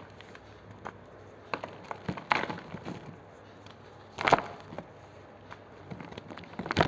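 Red reformed gym chalk being crushed, crumbling with scattered small crackles and three louder crunches, about two seconds in, about four seconds in and at the very end.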